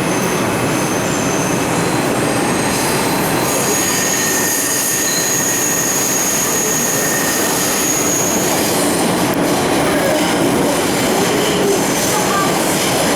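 Bombardier R142 subway train running on the rails with a steady loud rumble. About three seconds in, a high wheel squeal starts and holds for about five seconds.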